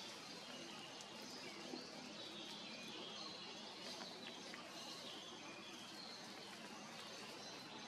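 Quiet outdoor ambience: a steady background hiss with faint, scattered bird chirps.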